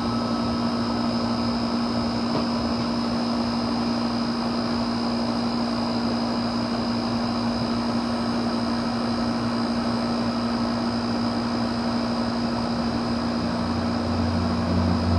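Gas furnace running: a steady hum over an even rush of air, with a lower hum joining near the end.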